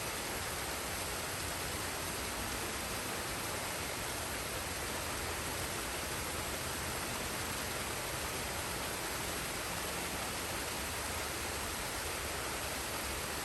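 Steady rushing of a forest waterfall and stream, an even wash of falling water with no change in level.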